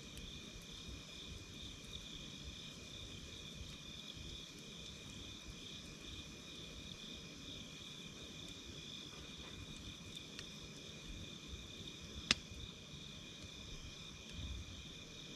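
Steady chorus of crickets and other night insects in a high, even trill, over a softly burning campfire with scattered faint crackles and one sharp pop about twelve seconds in.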